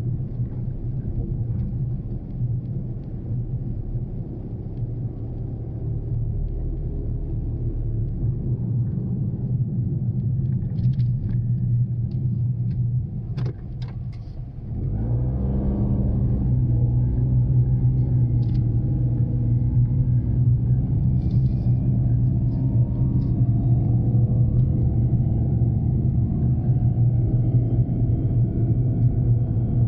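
Daihatsu Mira Cocoa kei car on the move: its small three-cylinder engine and road rumble run steadily. About halfway through the sound dips, then the engine picks up and runs louder.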